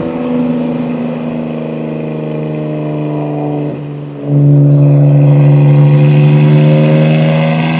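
BMW M2 G87's S58 twin-turbo inline-six under load, heard through catless downpipes and an equal-length mid pipe. It dips briefly about four seconds in, then gets much louder as the throttle opens, the revs climbing slowly.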